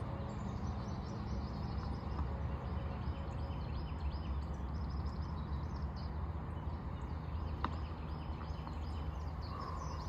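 Outdoor ambience: a steady low rumble with small birds chirping faintly throughout, and a single sharp click about three-quarters of the way through.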